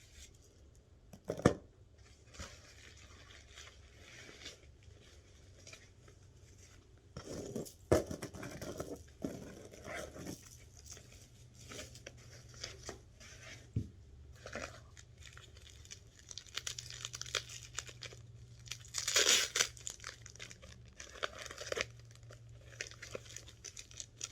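Packaging being unwrapped by hand: wrapping crinkling and tearing in bursts, with a few sharp knocks, the loudest about a second and a half in.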